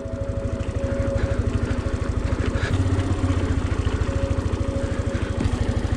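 Motorcycle engine running with a fast, even beat, swelling a little about halfway through as it is ridden on snow.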